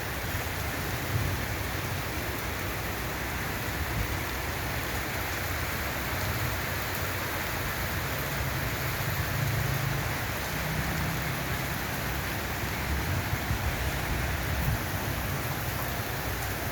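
Steady rain falling, an even hiss, with a low rumble swelling up about halfway through.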